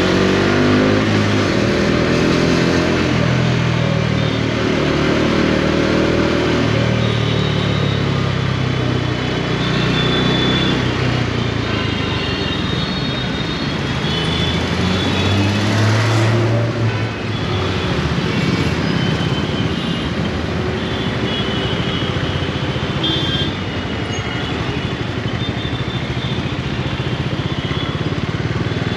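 Bajaj Dominar 400's single-cylinder engine pulling on the road, its note falling and rising with the throttle, with wind and road noise around it. The note climbs about halfway through, then drops off sharply.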